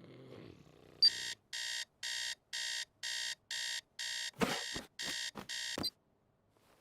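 Cartoon electronic alarm clock beeping about twice a second for about five seconds, with a few sharp knocks in the last second or so before it stops.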